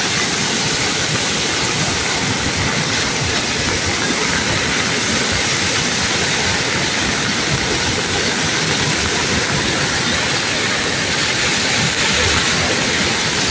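Steady, loud rushing of water, an even noise with no let-up.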